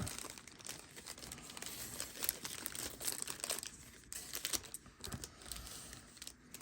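Foil booster-card packs crinkling and rustling as they are handled, in quiet irregular bursts.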